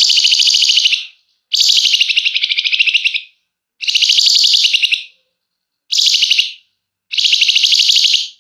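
Flamboyan songbird singing its rapid rattling trill ('ngebren') in five long bursts, each a fast run of high, buzzy pulses, with short pauses between.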